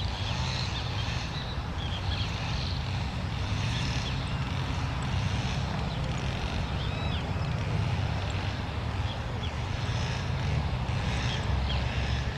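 Faint, scattered chirps of small wild birds over a steady low rumble.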